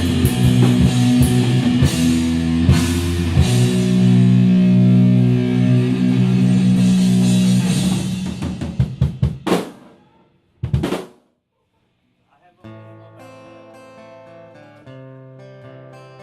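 Rock band ending a song: a held guitar chord over drums, then a run of separate drum hits closes it out about eight to ten seconds in. After a brief silence, a quieter acoustic guitar starts playing.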